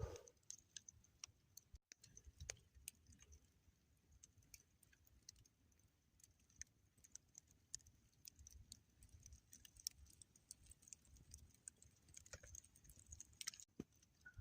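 Near silence, with faint irregular clicks and a weak low rumble.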